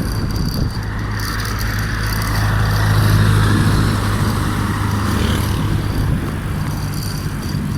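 A motor vehicle's engine running close by on the road, swelling to its loudest about three seconds in and easing off, over wind rumble on the microphone.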